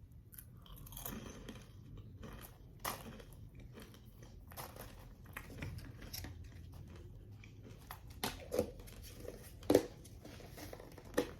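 Someone chewing crunchy freeze-dried candy, with irregular crackling crunches and the occasional crinkle of a plastic packet; the sharpest crunches come a few seconds in and again in the last few seconds.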